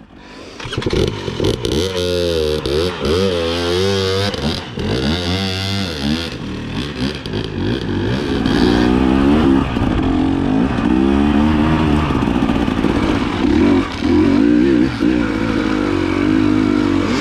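Dirt bike engine revving under load on a rocky trail. The revs rise and fall in quick swings, then hold higher and steadier for the second half, with a few knocks in the first seconds.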